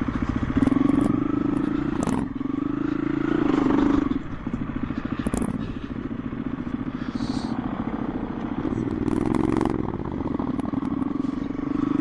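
KTM 350 EXC-F dirt bike's single-cylinder four-stroke engine running at low speed, revs rising and falling back to a low putter several times, with a couple of sharp knocks from the bike about two and five seconds in.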